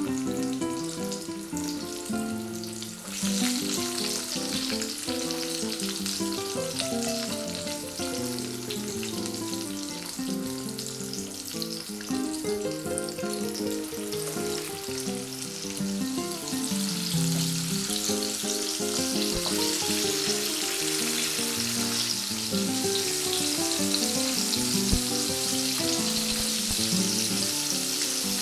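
Breaded chicken pieces deep-frying in hot oil: a steady sizzle that picks up about three seconds in and grows louder in the second half, under quiet background music.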